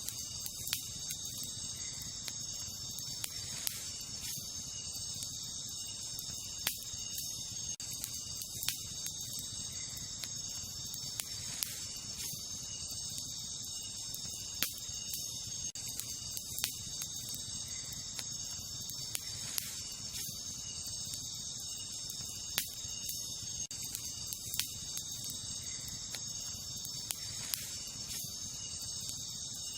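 Wood campfire crackling, with sharp pops every second or two at irregular intervals, over a steady high-pitched chorus of night insects.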